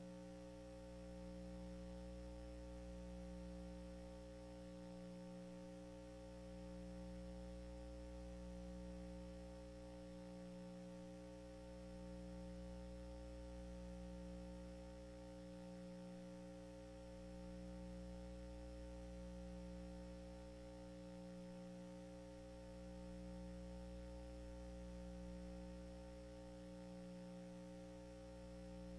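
Faint, steady electrical mains hum: several steady low tones that swell and fade gently about every five seconds.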